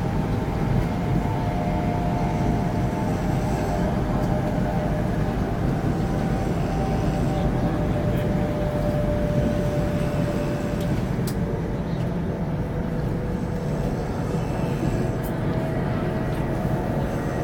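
Steady rumble and rush of a CRH (Hexie) high-speed electric train heard from inside the passenger car while running at speed, with a faint steady whine held above the rumble.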